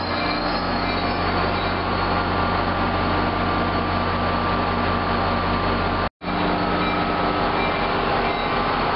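MBTA commuter rail diesel locomotive and passenger coaches passing slowly at close range: a steady engine drone under rolling wheel and rail noise, with a thin high squeal from the wheels. The sound cuts out for an instant about six seconds in.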